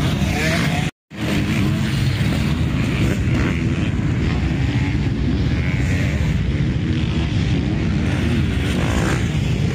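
Motocross bikes' engines running on the track, a dense, steady mix of several engines. The sound cuts out completely for a split second about a second in, then resumes.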